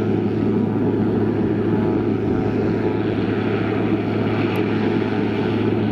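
Steady drone of a Cessna 182RG's six-cylinder Lycoming piston engine and propeller in flight, running at an even power setting with a constant low hum.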